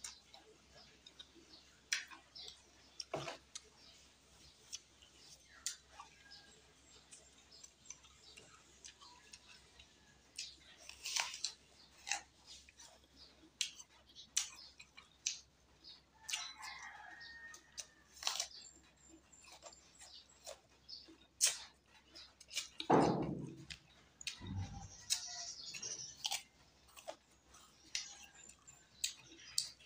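A person chewing with the mouth open, with many small wet smacks and clicks. About two-thirds of the way in there is one short, louder sound from the mouth that falls in pitch.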